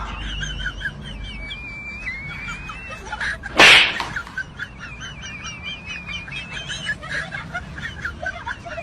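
Birds chirping and twittering steadily in the trees. About three and a half seconds in, a single short, loud burst of noise cuts across it.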